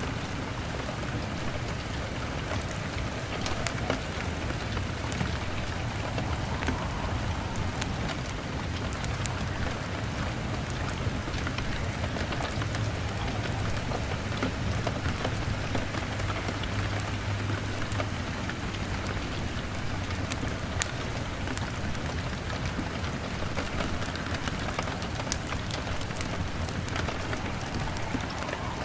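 Steady rain pattering on a window pane, with many small sharp ticks and crackles from a log fire burning, over a low rumble.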